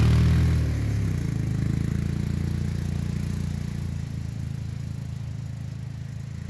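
Small gasoline engine running steadily. It eases off to a lower, pulsing note about a second in, then slowly fades.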